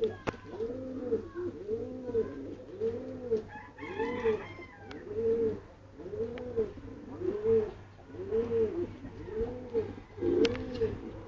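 Pigeons cooing: a steady train of low, rounded coos repeating a little more than once a second, with a brief higher chatter about four seconds in.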